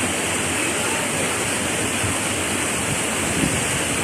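Waterfall pouring steadily into a pool, a constant rushing of falling water.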